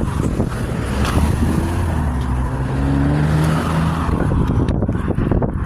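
A car driving past on the road, its engine hum rising a little in pitch and fading out about four seconds in.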